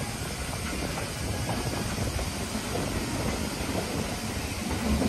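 Train running along the track, heard from on board: a steady rumbling noise of wheels on rail, rising slightly near the end.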